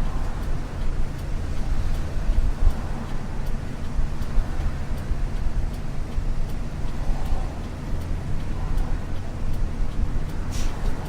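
Interior running sound of a 1994 Isuzu U-LV224N bus: its 6QB2 diesel engine drones steadily under way, with a low hum and road noise in the cabin. A short sharp hiss comes near the end.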